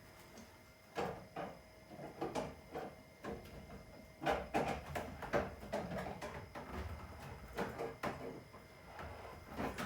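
Hands working copper refrigerator tubing into place: irregular knocks, clicks and rustles, with a denser cluster of knocks about four to five seconds in.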